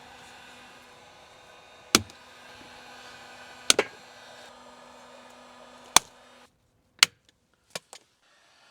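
Five sharp clicks or knocks, spaced a second or two apart, over a steady electric blower hum that cuts off about six and a half seconds in.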